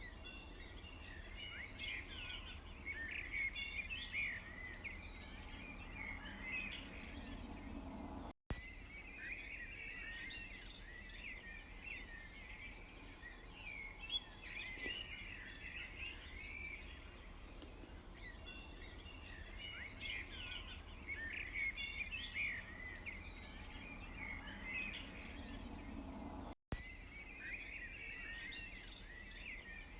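Many small birds chirping and twittering together in a dense, busy chorus over a low steady rumble. The sound cuts out for an instant twice, about a third of the way in and near the end, where the recording loops.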